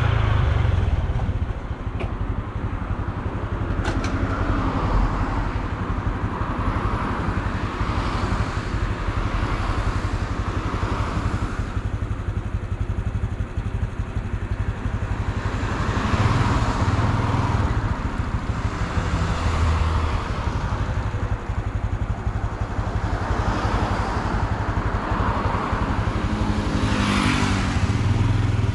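Honda Super Cub C125's 125 cc single-cylinder four-stroke engine and exhaust running while riding through town streets, with wind and road noise. The engine note swells as it speeds up about halfway through and again near the end.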